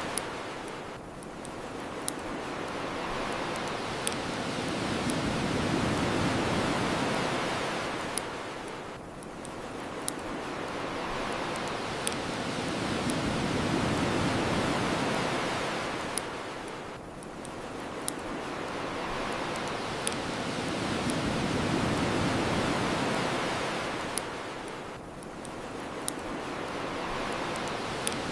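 Ocean waves washing onto the shore, swelling and falling about every eight seconds, with sharp pops from a crackling bonfire every couple of seconds.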